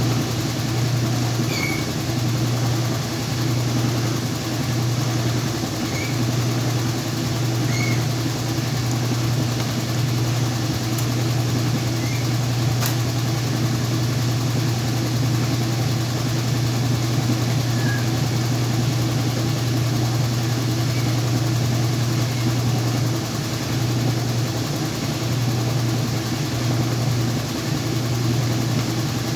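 Whirlpool washing machine spinning a load of sheets and pillows: a steady, even motor hum. A single sharp click about 13 seconds in.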